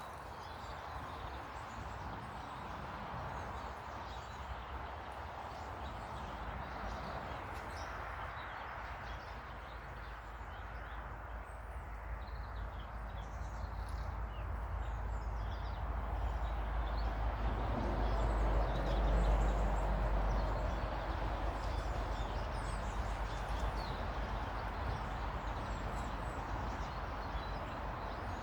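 Outdoor ambience: a steady background hiss with scattered faint high bird chirps, and a low rumble that swells for a few seconds a little past the middle, then eases off.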